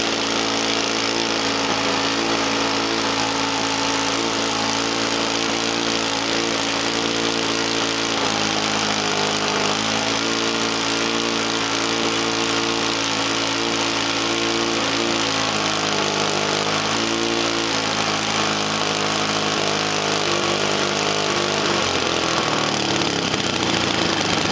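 Small UAV piston engine running hard during its initial burn-in (break-in) run, a loud steady drone with a strong hissing edge. Its speed shifts a few times and drops near the end.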